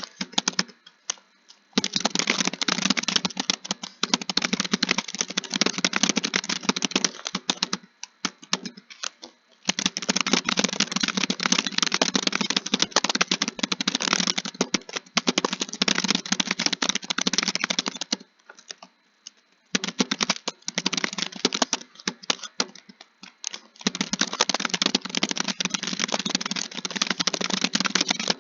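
Fast, continuous typing on a keyboard: dense runs of key clicks lasting several seconds each, broken by short pauses about a second in, around eight seconds in, and around eighteen seconds in.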